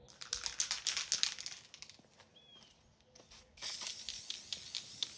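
Aerosol can of primer: a clatter of quick clicks for about two seconds, then a short spray hiss lasting about a second and a half, starting about three and a half seconds in.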